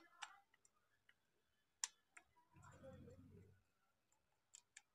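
Near silence broken by a few faint, sharp clicks of small parts of a stripped-down angle grinder being handled, with a faint low rustle about halfway through.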